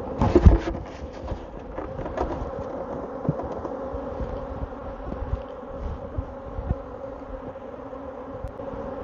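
A swarm of honeybees buzzing with a steady hum, shaken out and milling around a hive entrance. A knock about half a second in.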